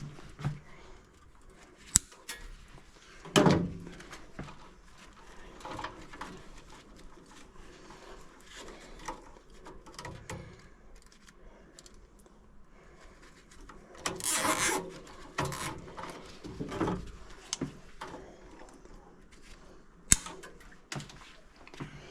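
Scattered clicks, knocks and rattles of hand work on an HVAC unit, with sharp clicks about 2 seconds in and near the end and a longer clatter about two-thirds of the way through. The blower is not running.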